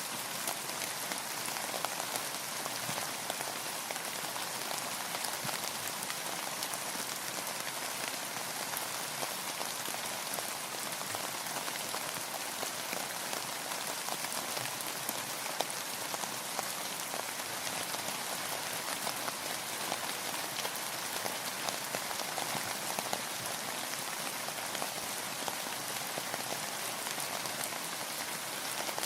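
Steady rain falling and pattering on surfaces, an even hiss made of countless small drop ticks.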